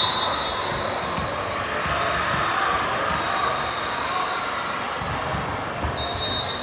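Ball thuds echoing in a gymnasium during indoor volleyball play, with voices in the background.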